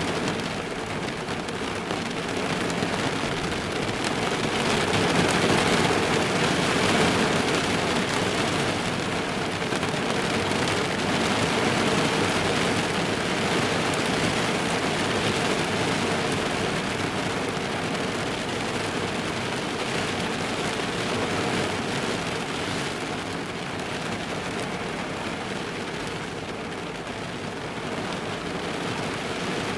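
Heavy rain drumming on a car's roof and body, heard from inside the car as a dense, steady patter that swells a little louder a few seconds in and eases slightly near the end.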